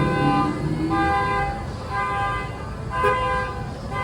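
Vehicle horn honking in short repeated blasts, about one a second, each a steady multi-note tone.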